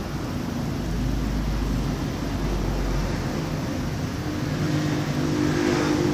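A motor engine running steadily, its pitch shifting a little, over a constant noisy background.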